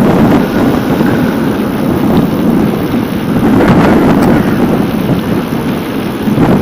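Wind buffeting the microphone of a camera carried on a moving bicycle: a loud, steady rushing noise.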